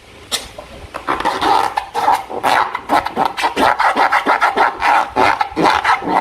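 Slime being squeezed and kneaded by hand, giving rapid, irregular sticky squelches and crackles that start about a second in, after a single sharp click.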